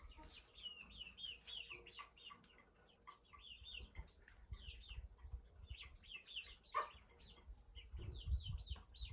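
Birds chirping in runs of short, falling high notes, several a second, with short pauses between the runs. A low rumble sits underneath.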